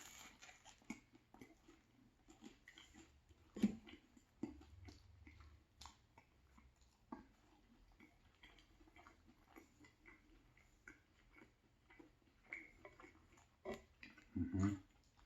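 A person chewing a crusty banh mi sandwich close to the microphone: faint, scattered crunches and mouth clicks, with a louder crunch about four seconds in and another near the end.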